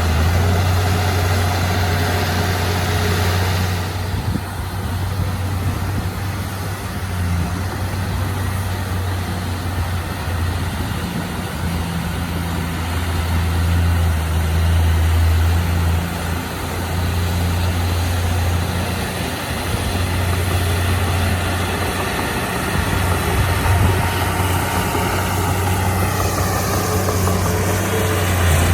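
Heavy diesel engine of earthmoving machinery running steadily with a deep, continuous hum. A higher whine slides down in pitch near the end.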